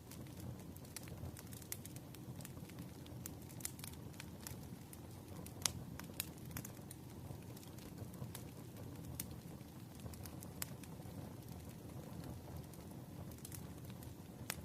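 Crackling fire with scattered sharp pops over a steady hiss of rain; one louder pop comes a little before the halfway point.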